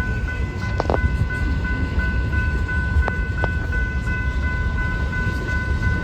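BNSF freight train rolling slowly through a rail yard: a steady low rumble with a few sharp clicks of wheels over the track. A steady high-pitched ringing tone runs over it the whole time.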